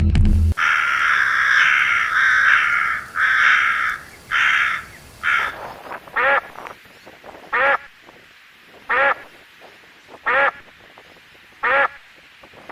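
Ducks quacking: a dense run of harsh quacks for about five seconds, then single quacks repeated evenly about every second and a half.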